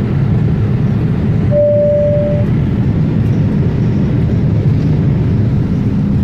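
Jet airliner taking off: a loud, steady low rumble of engines and rolling, with a single steady beep lasting about a second, about a second and a half in.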